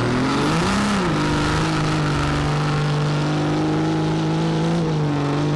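Diesel truck engine revving up and back about a second in, then held at a steady higher speed, dipping briefly near the end.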